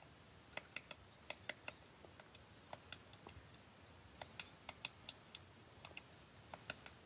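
Sharp, irregular clicks and ticks, several a second and bunching up near the end, from a hiker walking down a rocky trail, over a quiet background; a few faint, short high chirps fall between them.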